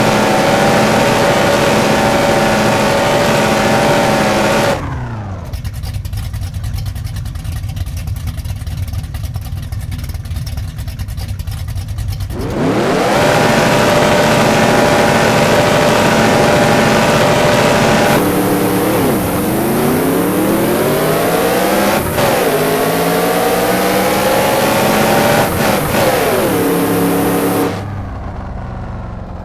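Old Dodge Dart race car engine held at high revs, dropping to a lower rumble about five seconds in, then revving high again. Later the car accelerates, its pitch climbing and falling back at two gear changes before settling lower near the end.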